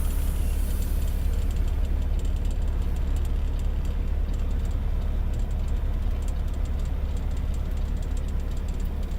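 Steady low rumble of a semi truck's Cummins ISX diesel engine.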